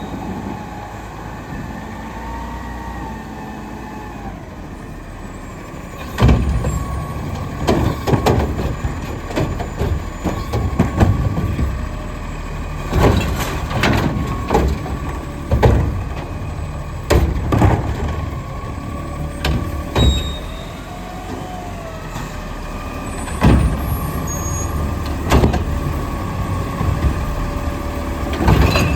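Diesel Autocar front-loader garbage truck with a McNeilus Curotto-Can working a collection route: a steady engine drone with a gliding squeal for the first few seconds, then repeated loud bangs and clatter, about a dozen at uneven intervals, as recycling carts are grabbed and dumped into the can.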